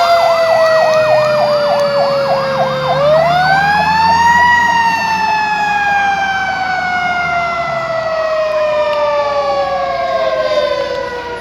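Fire truck sirens: a fast repeating yelp over a long wailing tone that dips, rises again about three seconds in, then slowly winds down. The yelp stops about four and a half seconds in, and a low engine rumble underneath fades out near the end.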